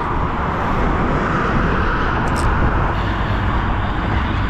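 Steady vehicle noise: an even rushing sound over a low hum, with no distinct engine note.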